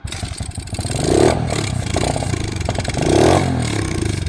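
Kawasaki KLX110 pit bike's small four-stroke single-cylinder engine catching and running through a Pro Circuit exhaust, revving up twice. It is firing on carb cleaner sprayed into the intake in small shots, because the carburettor is not yet picking up fuel.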